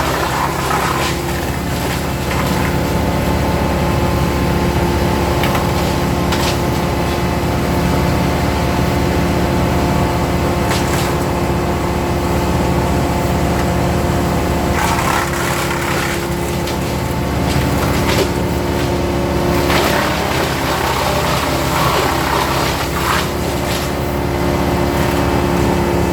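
Engine-driven wood chipper running at a steady speed, with sharp cracks a few times as branches are fed in and shredded.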